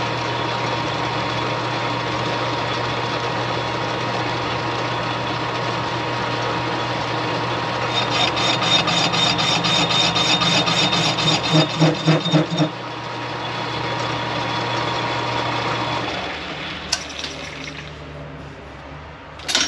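Metal lathe running steadily with the brazed finish-mower spindle housing chucked, while its edges are chamfered. A rapid, even ticking chatter comes from about 8 to 13 seconds in. The lathe is shut off about 16 seconds in and its hum dies away.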